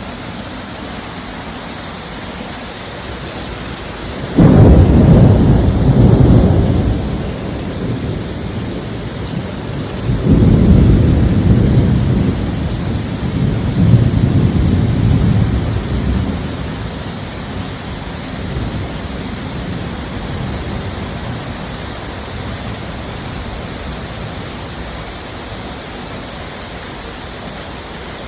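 Steady heavy rain with thunder twice: a sudden deep rumble about four seconds in, then a longer rolling peal starting about ten seconds in that swells again and fades away over several seconds.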